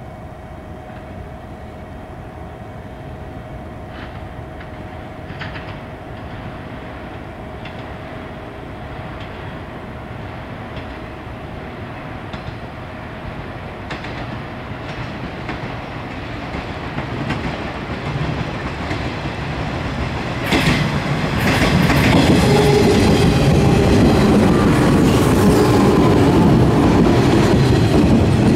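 Twelve-car JR 415 series electric multiple unit arriving at a station, its wheels clattering over rail joints and points. It grows steadily louder as it approaches and is loudest from about 22 seconds in, as the cars roll past close by.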